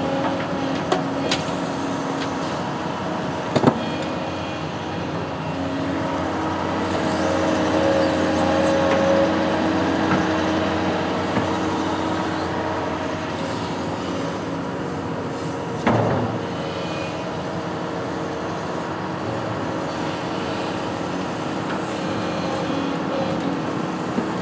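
Diesel engine of a construction machine running steadily under a working test, swelling a little in level about eight to ten seconds in. Sharp metallic knocks about three and a half seconds in and again about sixteen seconds in.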